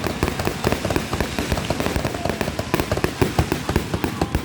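Fireworks going off in a rapid barrage: a dense run of crackling pops and bangs, many each second, without a pause.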